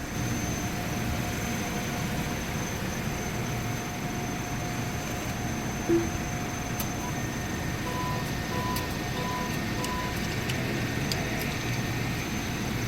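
A car idling with a steady low rumble while the car wash pay kiosk sounds electronic tones during payment: a short tone about six seconds in, then four short evenly spaced beeps about two seconds later.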